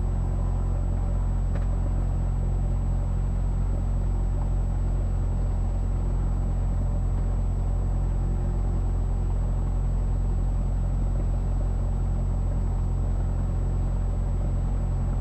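Cessna 172S Skyhawk's four-cylinder Lycoming engine running at low taxi power: a steady, unchanging low drone.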